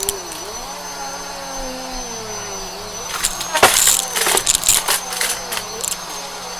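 Vacuum cleaner running, with a steady high whine over a low hum. A burst of rattling clicks and knocks comes about three and a half seconds in.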